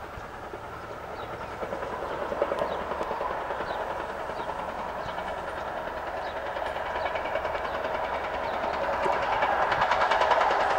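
A train approaching along the line, the running noise of its wheels on the rails growing steadily louder.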